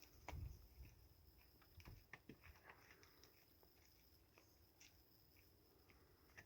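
Near silence: a few faint, scattered light clicks and taps, with a faint steady high-pitched hum underneath.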